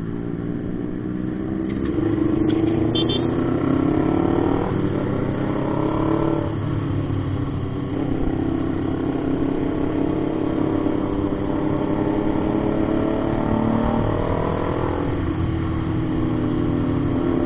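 Motorcycle engine accelerating through the gears: its pitch climbs, drops back at shifts about five seconds in, again a second and a half later, and near the end, then climbs again. A low wind rumble runs underneath.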